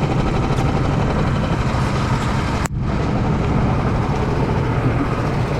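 A motor vehicle engine running steadily with a rushing noise over it, broken off for an instant about halfway through.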